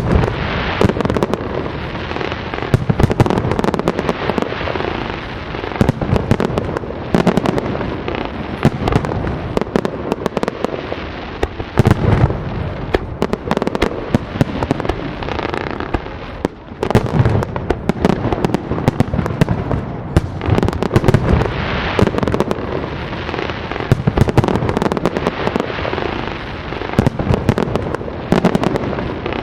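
Fireworks display: a dense, continuous run of bangs, pops and crackle from bursting shells, one overlapping another with no pause.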